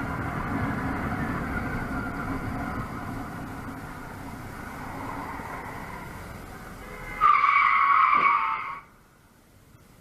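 Car driving noise, then about seven seconds in a loud tyre screech of a car skidding for about a second and a half, which cuts off suddenly.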